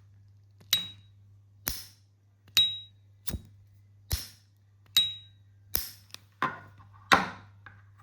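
ST Dupont Line 2 lighter lids worked open and shut, giving sharp metallic clicks about once a second. Several of them ring with a brief clear high ping, the ping of a clean, little-used Line 2.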